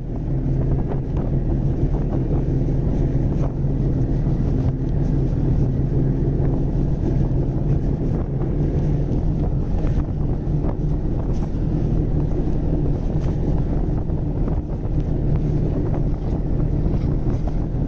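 Snowmobile engine running at a steady cruising speed, a constant low hum, with wind buffeting the microphone.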